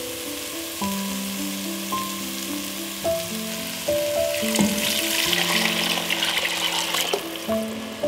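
Beans frying in a hot pot, with a steady sizzle. About halfway through, a louder rush of sizzling and splashing lasts a couple of seconds as vegetable broth is poured in. Soft background music plays throughout.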